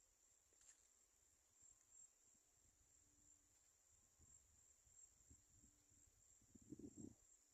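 Faint, steady high-pitched chirring of crickets, with a few soft low knocks near the end.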